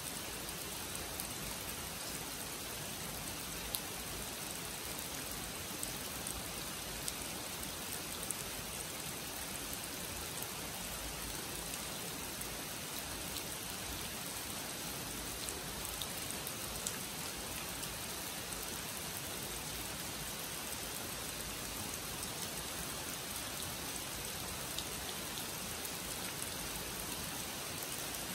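Steady rain falling on a pond and the surrounding leaves, an even hiss with scattered sharper drop ticks.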